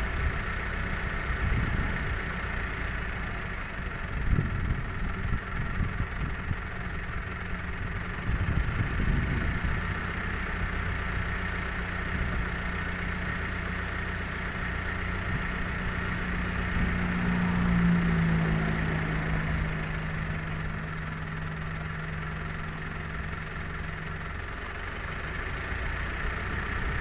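An engine running steadily with a low, even hum. A second, higher engine tone comes in about two-thirds of the way through, swells, and fades out again a few seconds later.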